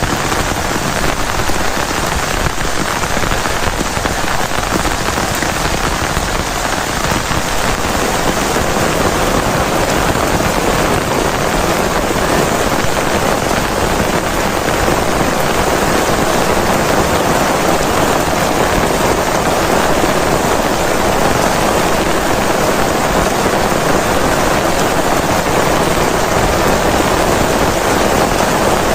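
Heavy rain falling steadily, a dense even hiss of drops that grows a little heavier after about eight seconds.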